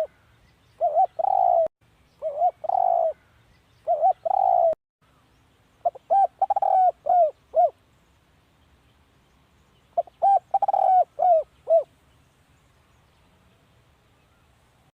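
Spotted dove cooing: short groups of two or three coos through the first five seconds, then longer phrases of about five coos at about six and ten seconds in, after which the calling stops.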